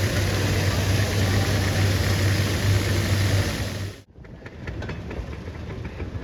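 An engine idling steadily with a low hum, cut off abruptly about four seconds in and followed by quieter ambience with light clicks.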